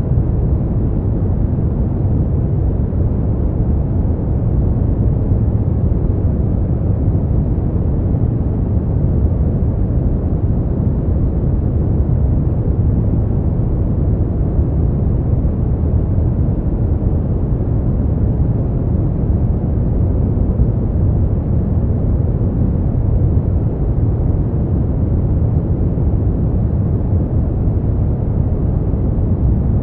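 Steady, unchanging sleep-noise track: a deep, dark rush with most of its weight in the low end and almost no hiss up high, more like brown noise than bright white noise.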